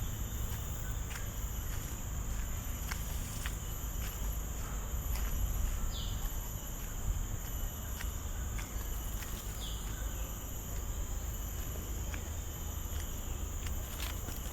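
Steady high-pitched drone of forest insects, with a faster pulsing insect trill above it. Two short falling bird calls come about six and ten seconds in, over faint footsteps on the trail.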